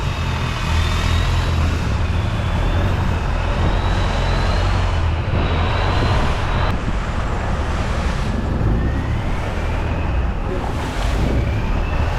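Boat engine running steadily under way, with a faint high whine that wavers up and down in pitch.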